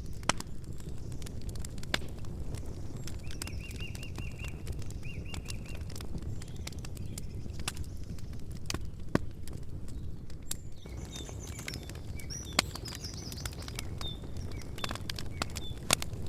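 Campfire crackling: irregular sharp pops and snaps over a steady low rumble of burning wood. Small birds chirp in short runs of notes twice, a few seconds in and again past the middle.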